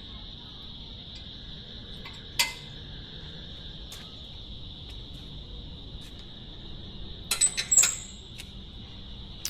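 Crickets chirring in a steady high trill. A sharp click sounds about two and a half seconds in, and a short cluster of louder clicks and a clink comes near the end.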